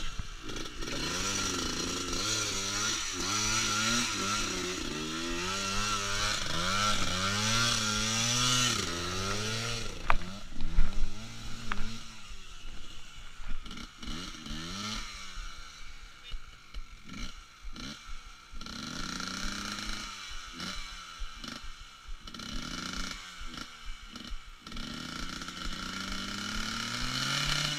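Trail motorcycle engine revved over and over, its pitch climbing and dropping with each twist of the throttle, with a couple of sharp knocks about ten seconds in. Later the revs come as short quick blips, and a longer rising rev near the end.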